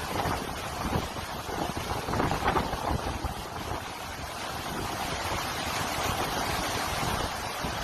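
Hurricane Ian's storm wind buffeting the microphone in irregular gusts, over a steady rush of wind and water noise.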